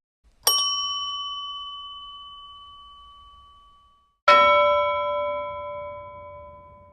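Two bell-like dings, one after the other: a bright, higher ding about half a second in that rings out and fades over about three seconds, then a lower, fuller ding about four seconds in that rings out to the end.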